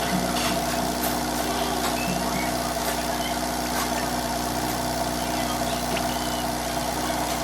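Kia Cerato engine idling steadily, with a few faint clicks.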